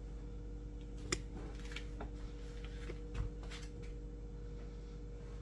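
Steady low electrical hum with a few faint clicks and a soft thud about three seconds in.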